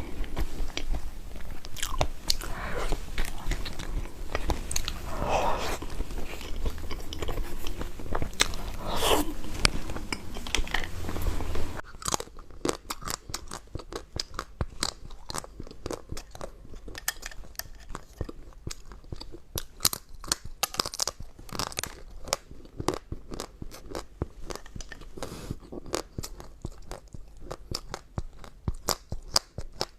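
Close-miked eating sounds: crunchy food being bitten and chewed, a dense run of sharp crunches. About twelve seconds in, the background drops away and the crunches become crisper and more separate.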